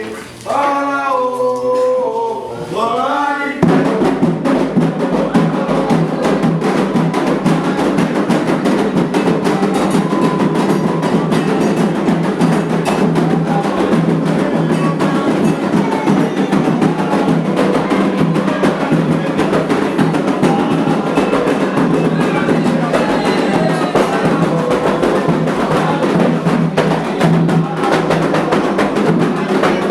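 Candomblé ritual music: a voice sings a line alone, then about three and a half seconds in the atabaque hand drums come in together with a fast, dense rhythm under continued singing.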